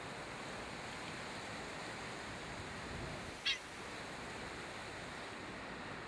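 A single short, sharp bird call about halfway through, over a steady background hiss.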